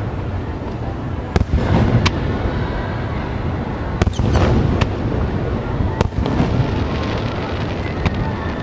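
Aerial firework shells bursting: five sharp bangs spaced one to two seconds apart over a continuous low rumble and crackle of further bursts.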